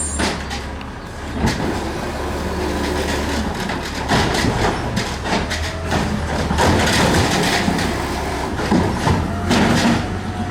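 Garbage truck's diesel engine running steadily under a string of knocks and bangs.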